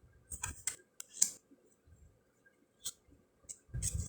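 Round card-stock fortune cards being flipped and handled: a series of about six sharp flicks and clicks, the loudest a little over a second in.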